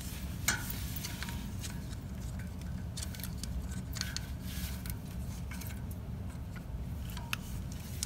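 Scattered light metallic clicks and clinks of a brass radiator valve and its union nut being handled and fitted by hand, the sharpest click about half a second in, over a steady low hum.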